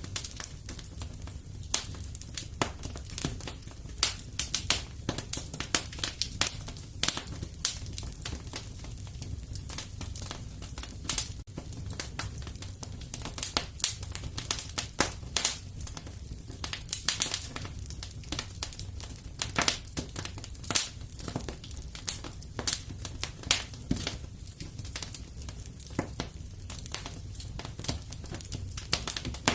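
Fire crackling in a fireplace: irregular sharp pops and snaps, sometimes several a second, over a low steady rumble.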